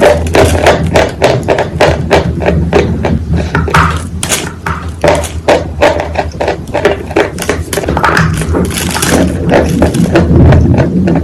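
A quick, irregular series of taps and knocks, several a second, over a steady low hum.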